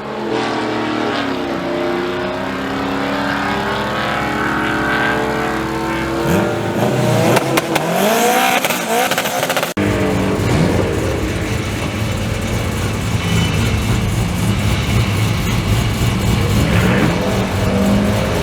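Car engines accelerating hard, the pitch sweeping up again and again as the revs climb through the gears. About ten seconds in, the sound changes abruptly to a different engine running at high revs.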